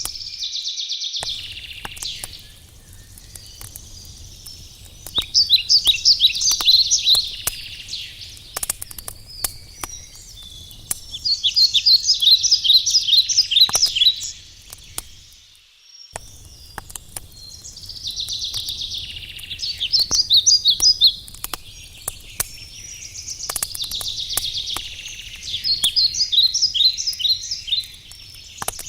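A wood campfire crackling with scattered sharp pops under a low steady rumble, while a songbird repeats a fast trilled song phrase of two to three seconds about every six seconds; the bird song is the loudest sound.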